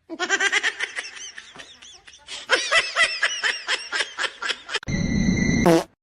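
Laughter in rapid, repeated bursts. Near the end it gives way to a brief noisy sound with a few steady high tones and a quick upward sweep.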